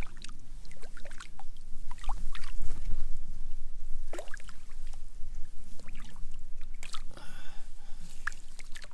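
Small splashes, drips and sloshing of lake water around a kayak, with scattered light knocks and clicks.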